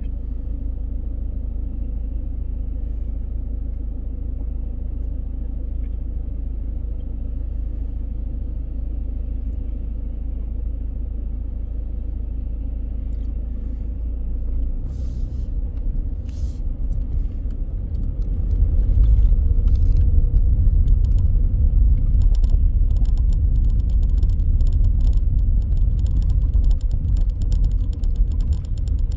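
A car driving, with steady low road and engine rumble that grows louder about two thirds of the way through. A run of quick clicks and rattles comes in near the end.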